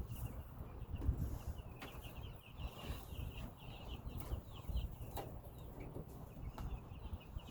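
Many Cornish Cross chicks, five days old, peeping continuously as a flock, with a few sharp knocks and handling noise over them.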